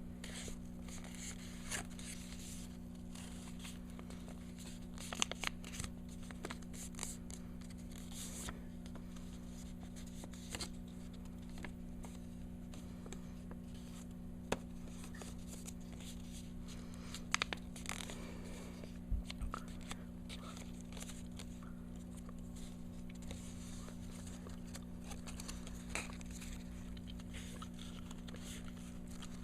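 A sheet of origami paper being folded and creased by hand: irregular rustling, crinkling and short scrapes, with a few sharper taps, over a steady low hum.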